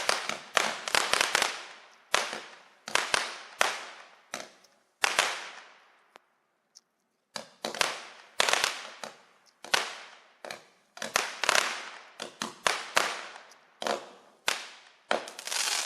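A Color Pearl consumer fireworks cake firing shot after shot: a rapid run of sharp bangs, each fading quickly. The bangs pause for about two seconds partway through, then come faster near the end. The cake is labelled 'up to 200 grams' but is not a true 200-gram cake by the seller's account.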